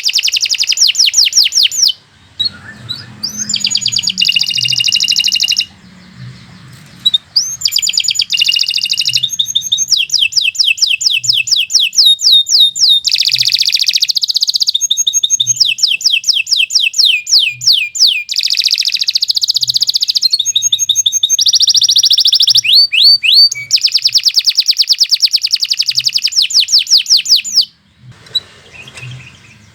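Domestic canary singing long, fast trills and rolling phrases of rapidly repeated high notes, pausing briefly about two seconds in, around six seconds in and near the end.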